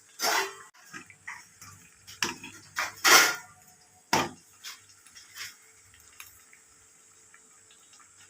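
Kitchen utensils and dishes being handled: a string of separate clatters and clinks, the loudest about three seconds in, over a faint steady hum.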